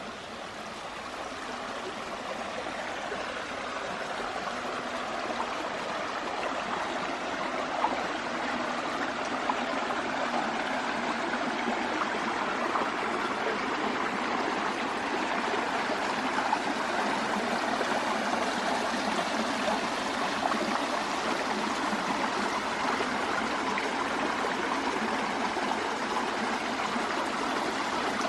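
Forest stream running steadily, growing louder over the first several seconds and then holding even.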